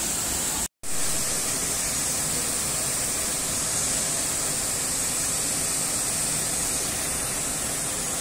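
Steady rush of a waterfall, cutting out completely for an instant less than a second in.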